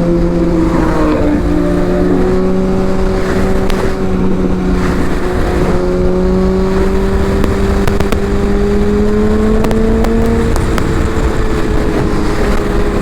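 Sport motorcycle engine cruising at highway speed in sixth gear, a steady note that slowly rises and eases off slightly near the end, under heavy wind noise on the helmet microphone.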